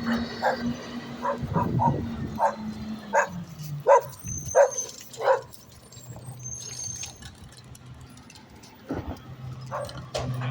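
A dog barking repeatedly, about ten barks in the first five and a half seconds, then stopping. A low, steady engine runs underneath throughout.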